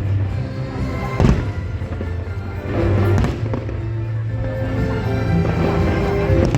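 Music with steady held notes, with fireworks bursting over it: a sharp bang about a second in and a few more around three seconds.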